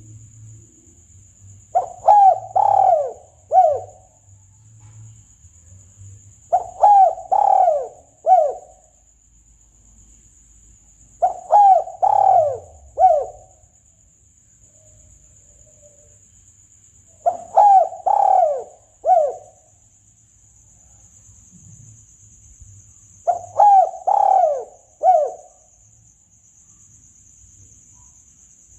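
Spotted dove cooing: five phrases, each three or four coos, repeated about every five to six seconds.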